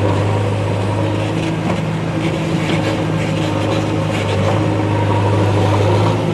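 Heavy vehicle engine running at a steady speed: a deep, even hum.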